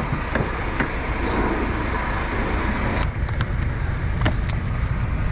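A vehicle engine running steadily as a low rumble, with a few sharp clicks and knocks from handling.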